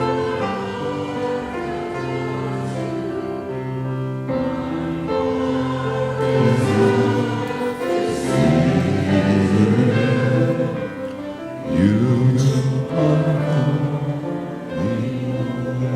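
Choir singing a church anthem over held accompanying chords; the voices grow fuller and louder about six seconds in.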